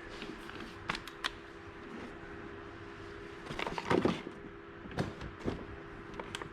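Scattered clicks and light knocks of hand tools and chainsaw parts being handled during a teardown, with a short cluster of clatter about three and a half to four seconds in, over a steady low hum.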